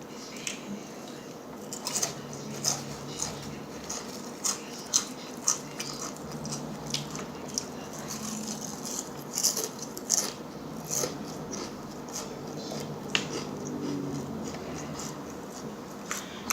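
Close-up eating sounds: a person chewing food, with irregular short wet mouth clicks and smacks.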